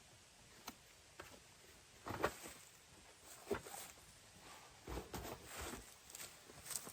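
A few scattered soft knocks and rustles, the loudest a little over two seconds in, with a cluster about five seconds in.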